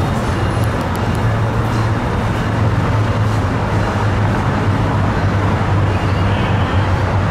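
Tri-Rail commuter train standing at the platform, its diesel power idling with a steady low hum.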